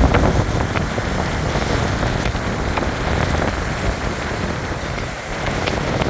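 Ocean waves washing on the shore: a steady rush of surf with small crackling splashes through it, and wind rumbling on the microphone.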